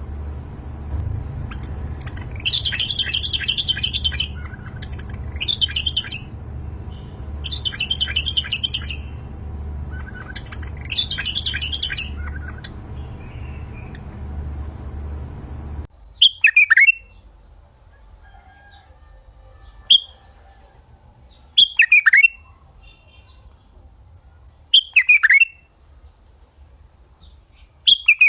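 Songbirds chirping in quick bursts of several seconds over a low steady rumble. About halfway through, the sound cuts abruptly to a quiet background in which a single bird repeats a short call that sweeps downward, roughly every three seconds.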